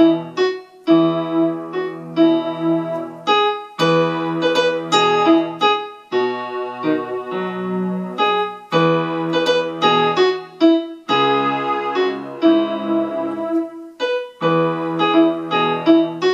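Electronic keyboard on a piano pad setting, playing the chorus of a gospel hymn in E major: melody over sustained chords and left-hand bass notes, in phrases with short breaks between them.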